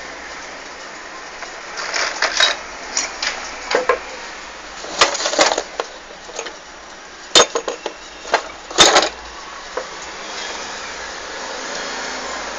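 Metal tools and engine parts clinking and knocking during repair work: irregular clusters of sharp clinks, the loudest a little past the middle, over a steady background hiss.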